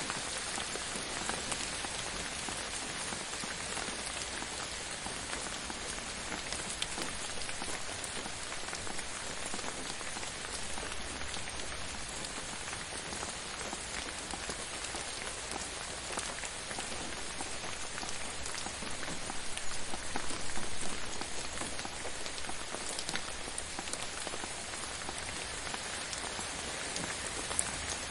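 Steady gentle rain falling, an even hiss scattered with the ticks of individual drops, swelling a little just past the middle.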